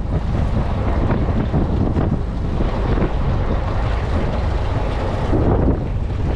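Wind buffeting the microphone on a boat at sea, over the wash of water. It is loud and steady.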